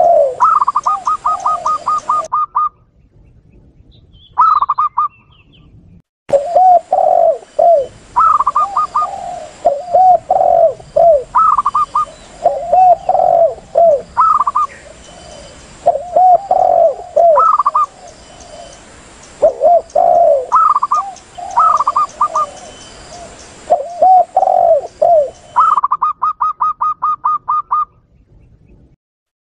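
Spotted dove and zebra dove calls layered together as a dove-lure recording. The spotted dove's low cooing phrases repeat over and over, mixed with the zebra dove's quick runs of higher, staccato coos. A pause of a few seconds near the start holds a single short call.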